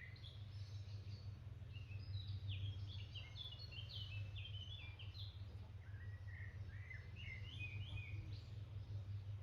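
Small birds chirping and singing in quick runs of short, high notes, busiest from about two to five seconds in and again near the end, over a steady low hum.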